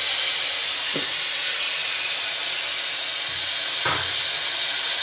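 Chopped tomato sizzling as it goes into hot oil with softened onions: a loud, steady hiss, with two brief knocks about one and four seconds in.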